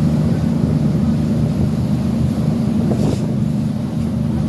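Boat engine running steadily under way at sea, a continuous low drone with wind and water noise over it.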